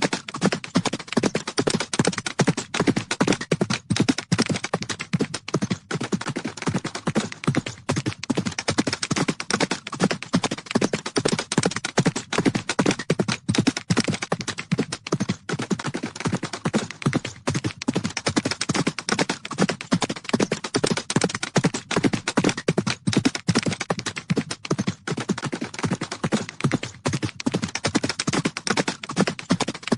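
Galloping horse hooves: a dense, rapid drumming of hoofbeats on the ground that keeps going without a pause.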